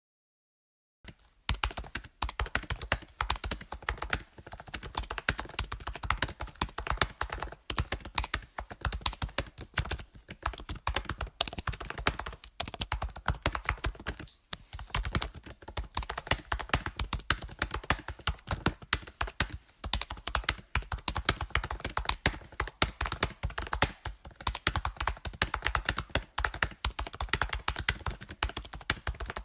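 Computer keyboard typing: a rapid, uneven run of key clicks and taps with brief pauses, starting about a second in after a moment of silence.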